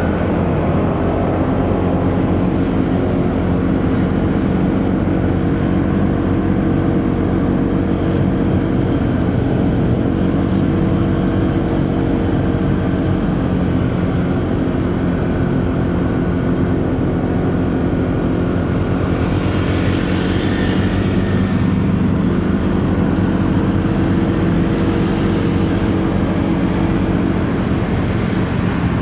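Motorcycle engine running steadily under way in city traffic, with tyre and traffic noise; a hiss swells briefly about two thirds of the way through.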